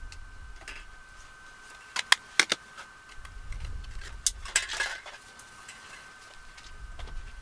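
Small makeup items being handled: a quick run of sharp clicks about two seconds in and a brief rustle near the middle, over a faint steady high-pitched tone.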